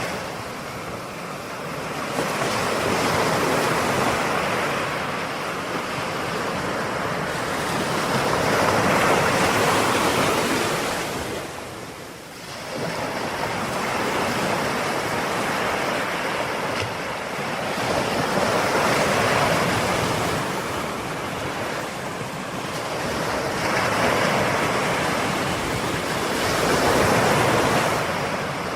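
Ocean waves breaking and washing on the shore, the surf swelling and ebbing every few seconds, with a brief lull about halfway through.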